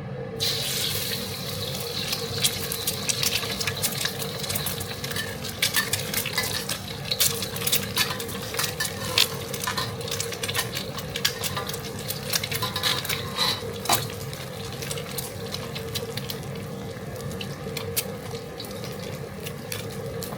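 Pork stir-frying in a pan: a steady sizzle starts just after the beginning, with a spatula repeatedly scraping and clinking against the pan.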